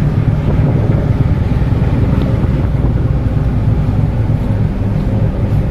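Steady low rumble of a ship under way in a rough sea, with wind buffeting the microphone.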